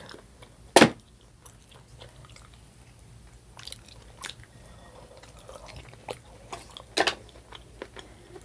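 Close-miked eating: chewing and wet mouth sounds, with a few small clicks and two sharp loud clicks, about a second in and near the end.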